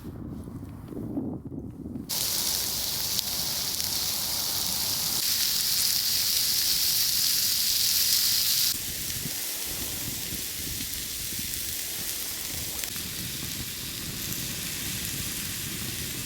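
Food sizzling in a hot pan: a steady hiss that starts about two seconds in, drops a little about halfway through, and cuts off at the end.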